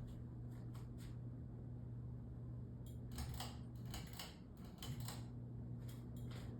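Ceiling fan running on high speed: a low steady motor hum with irregular light clicks and ticks over it. The whole is called pretty noisy.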